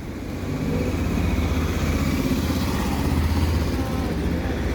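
Diesel bus engine running close by with a steady low rumble that builds over the first second.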